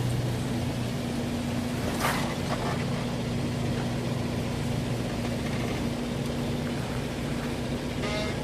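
Four-wheel-drive vehicle's engine running steadily at low revs, with a single sharp knock about two seconds in and a brief high-pitched tone near the end.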